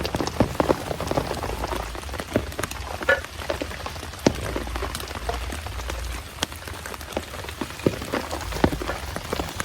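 Heavy rain falling steadily, with large drops hitting a surface close by as frequent, irregular sharp taps over the hiss of the downpour.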